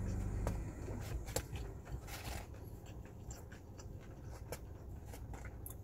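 A person chewing a mouthful of pizza with the mouth closed, faint wet clicks and smacks scattered irregularly. The chewing follows a short hummed "mm" in the first half second.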